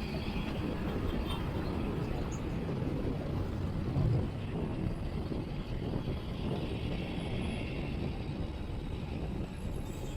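Wind rushing over the microphone of a chest-mounted action camera on a moving road bike, mixed with the steady noise of road traffic. About four seconds in there is a brief, louder low gust.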